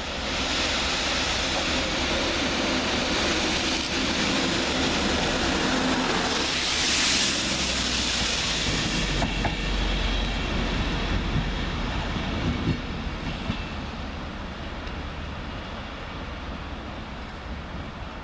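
Railhead treatment train, a pair of Windhoff multi-purpose vehicles, running through on diesel power with wheels clattering over the rails. It is loudest about seven seconds in, then fades as the train moves away.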